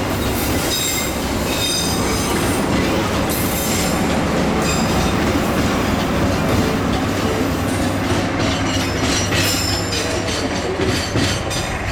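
Passenger train carriages rolling past close by: steady rumble of wheels on the rails, clacking over rail joints, with high wheel squeal coming and going.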